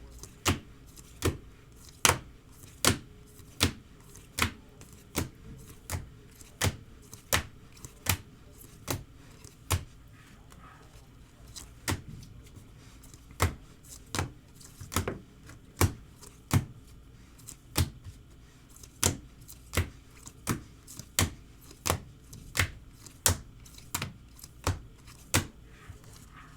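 Trading cards being laid down one at a time on a table while they are counted: sharp taps about one and a half a second, with a pause of about two seconds near the middle.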